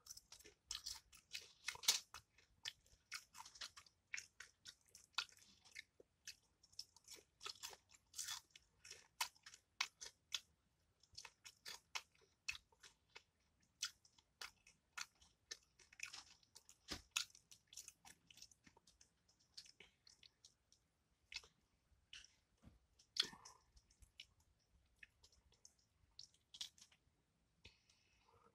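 Close-miked chewing and crunching of crispy fried fish: a dense run of sharp crunches and wet mouth clicks, thinning out in the second half.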